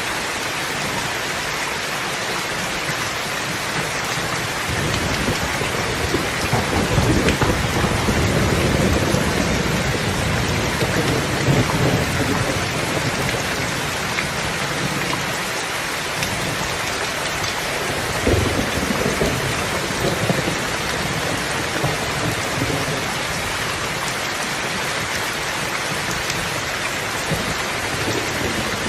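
Steady rain falling, with rolling thunder: a long low rumble from about five seconds in to around twelve seconds, and a shorter one about eighteen seconds in.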